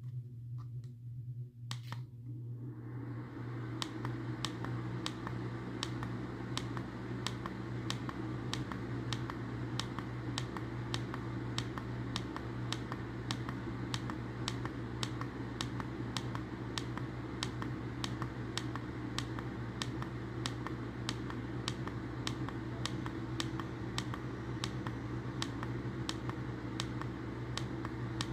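A steady electric hum, joined about two and a half seconds in by the even running noise of an appliance switching on, with sharp regular ticks about twice a second.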